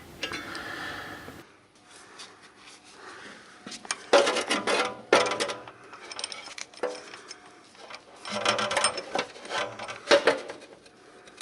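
Metallic clinks and rattles of tools and brake hardware being handled while a handbrake cable and its springs are fitted. The clinking comes in two busy bursts, about four seconds in and again about eight seconds in.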